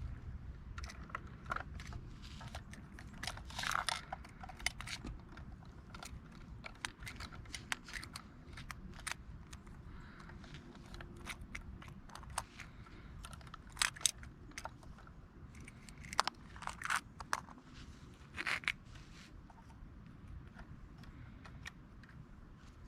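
Handling noise from model garbage trucks being moved about: irregular clicks, taps and short scrapes over a low background rumble, with a few louder clatters around the middle and later on.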